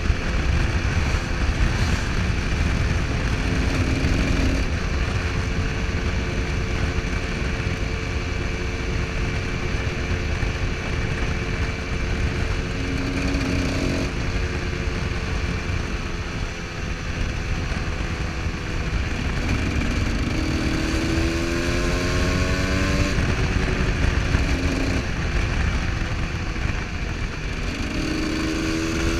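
Husqvarna SM125 supermoto engine running under way, holding steady revs for most of the time, then revving up twice as it accelerates, about two-thirds of the way in and again near the end. Heavy wind rush on the microphone runs underneath.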